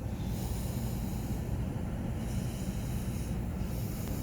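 Street sweeper truck running as it sweeps, a steady low rumble.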